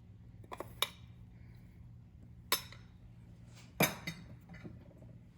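A few separate light clinks of a utensil against a dish, four or so sharp taps spread apart, the loudest about two-thirds of the way through.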